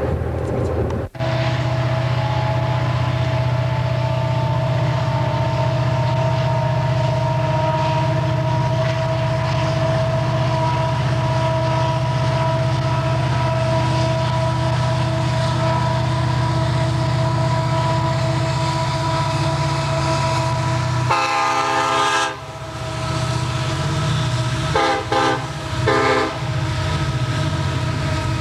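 Diesel locomotive running steadily, with a drone and a few held tones. About 21 seconds in the sound changes briefly, and two short horn toots follow a few seconds later.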